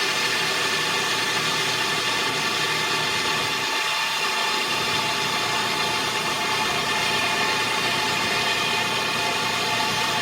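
Heavy machinery running steadily, an even mechanical noise with a constant hum of steady tones.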